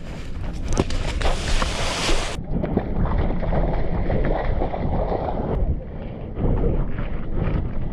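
Wind buffeting the microphone over splashing and sloshing water, rough and uneven, with a hissy splash in the first couple of seconds that then drops away.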